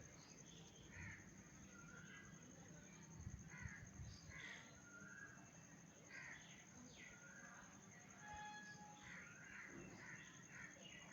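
Faint birds calling, several short calls scattered throughout, some of them crow-like caws, over a steady high-pitched tone.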